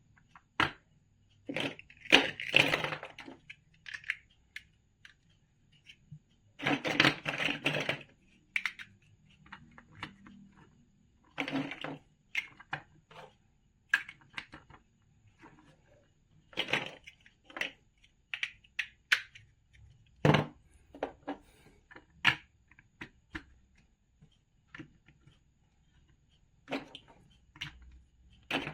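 Large plastic building bricks clicking and tapping as they are handled and pressed together, a string of separate sharp clicks with two longer stretches of rattling, about two seconds in and about seven seconds in.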